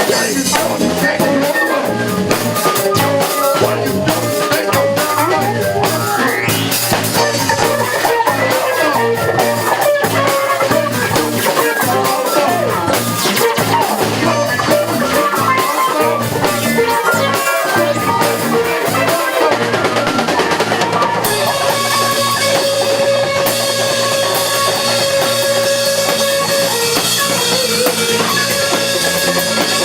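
Live rock band playing: drum kit and electric guitar. Partway through, the drums give way to a brighter, sustained wash of cymbals and guitar.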